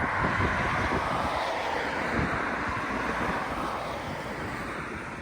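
Storm wind rushing in a gust that is loudest at the start and slowly dies away, with wind buffeting the microphone underneath.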